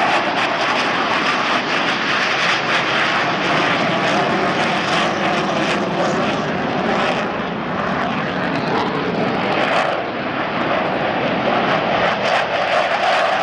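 Twin jet engines of a McDonnell Douglas F-15C Eagle at takeoff power: a loud, steady rushing roar that eases slightly twice, about seven and ten seconds in.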